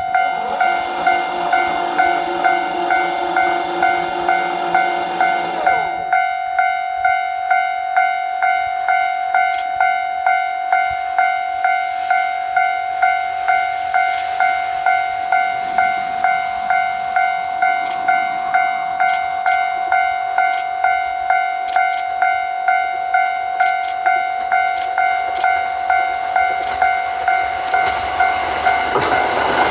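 Railway level-crossing warning bell ringing in a steady pulse, about one and a half strokes a second. A second, lower held tone sounds with it for the first six seconds. A train's rumble starts to build in the last second.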